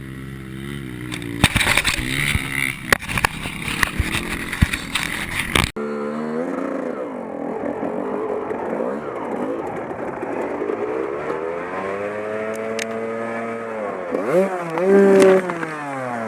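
Motorcycle engines running, with their pitch rising and falling as the rider revs and changes speed. In the first few seconds sharp knocks and clatter sound over the engine. The sound changes abruptly about six seconds in.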